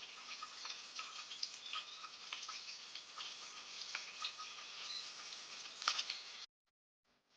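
Small birds: a dense run of quick ticks and pattering mixed with brief high chirps. It cuts off abruptly about six and a half seconds in and returns much fainter near the end.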